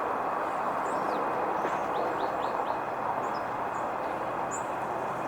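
Birds chirping in short high calls, including a quick run of about four falling chirps partway through, over a steady outdoor background hiss.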